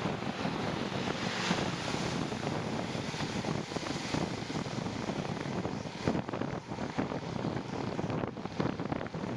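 Wind rushing over the microphone of a moving bicycle, a steady noisy buffeting.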